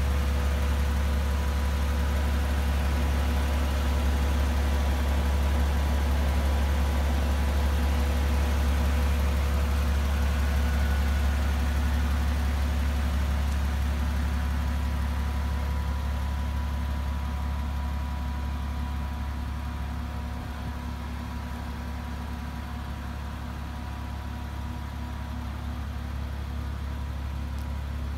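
Mercedes G65 AMG's twin-turbo V12 idling with a steady low drone, getting quieter over the second half.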